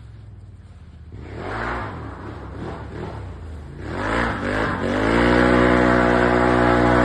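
Can-Am Outlander XTP 1000 ATV's V-twin engine through a Yoshimura aftermarket exhaust. It idles low at first and is revved up and down twice, then about five seconds in climbs to high revs and holds there, loud and steady.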